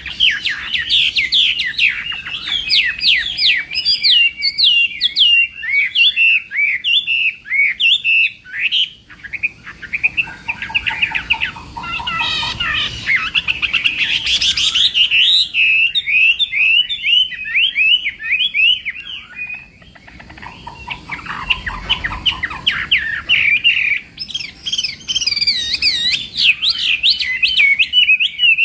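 Chinese hwamei singing a long, loud song of rapid, varied whistled phrases, easing off briefly twice before picking up again.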